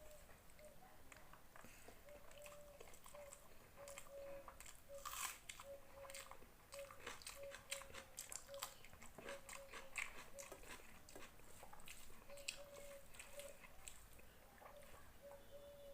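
A person eating a rice meal close to the microphone: irregular chewing with wet mouth clicks and occasional crunches, busiest in the middle.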